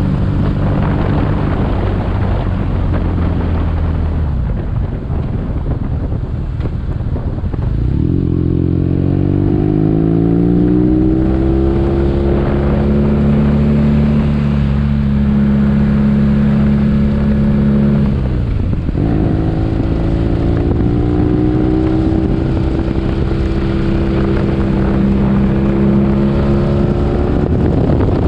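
BMW R nineT's boxer-twin engine running under way. Its pitch climbs as it accelerates from about eight seconds in, holds, drops briefly at a gear change about eighteen seconds in, then climbs again.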